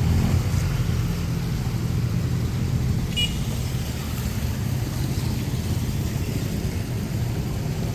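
Low, steady rumble of motor-vehicle traffic close by, with a brief high chirp about three seconds in.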